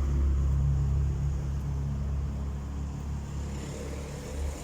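Motor vehicle engine running with a low rumble that gradually fades.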